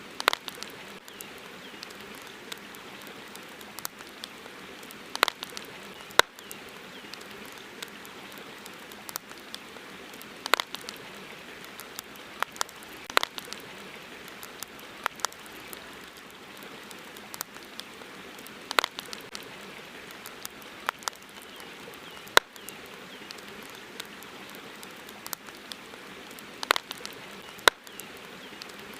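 Campfire crackling: irregular sharp pops and snaps, a second or two apart, over a steady hiss.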